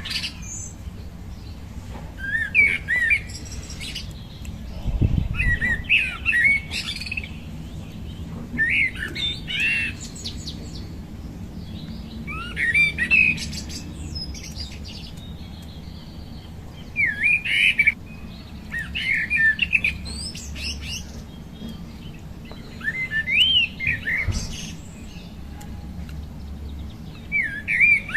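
A songbird singing short, warbling, chirpy phrases, one every two to three seconds, over a steady low background hum. There is a brief low rumble about five seconds in.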